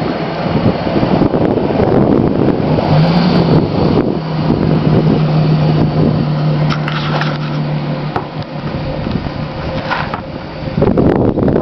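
1999 Chrysler 300M's 3.5-litre V6 running through a Flowmaster exhaust as the car drives off, with a steady exhaust drone that rises slightly about three seconds in and holds until about eight seconds.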